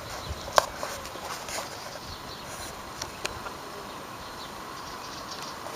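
Steady outdoor background noise with a faint even hum, broken by a few sharp clicks, the loudest about half a second in and another about three seconds in.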